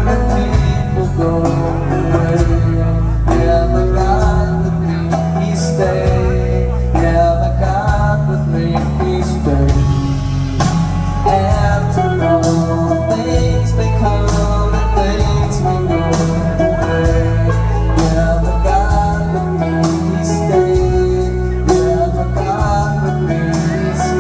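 Live band playing amplified music at full volume: guitars and a strong bass line over a steady drum beat, with a sung vocal.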